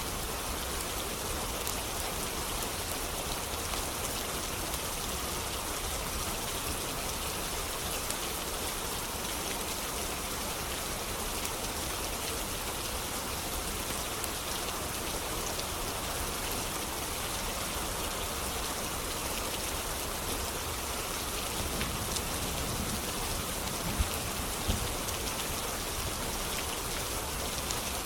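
Steady rain pattering, an even hiss of fine drops. Near the end come two sharp pops a little under a second apart.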